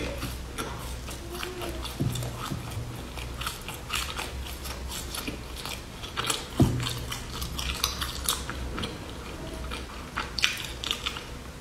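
Close-up crunching as a crisp puffed-grain bar with pumpkin seeds is bitten and chewed, many short crackling crunches one after another. Two louder low thumps stand out, about two seconds in and a little past halfway.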